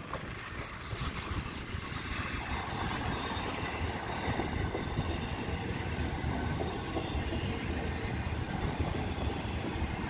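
Double-stack container freight train rolling past, a steady low rumble of its wheels on the rails that grows a little louder about two seconds in.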